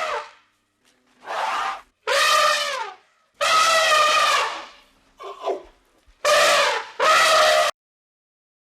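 An animal calling over and over: a run of about six loud, pitched cries, each lasting half a second to a second, with short silent gaps, the last two nearly running together.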